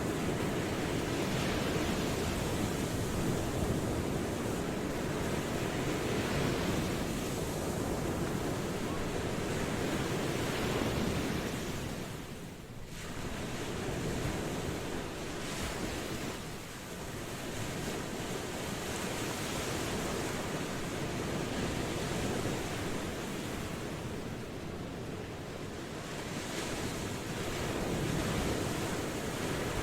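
Ocean waves washing onto a shore in a continuous surge, swelling and easing every few seconds, with a brief lull about halfway through.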